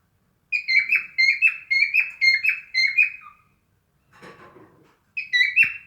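Cockatiel singing a quick string of repeated sharp chirping whistles, about four notes a second for nearly three seconds. After a short pause with a soft rough noise, it gives another brief burst of the same notes near the end.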